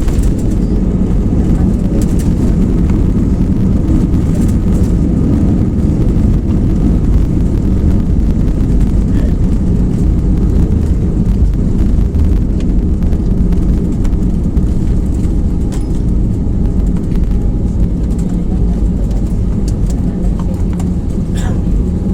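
Airbus A320 cabin noise during the landing roll: a loud, steady rumble of engines and wheels on the runway, easing slightly after about twelve seconds as a steadier engine hum comes through.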